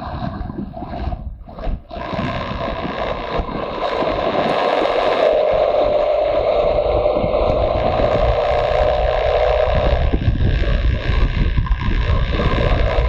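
Motorcycle engine running under way, with heavy wind rumble on the microphone. The sound briefly drops away about a second and a half in, then comes back and holds steady and a little louder.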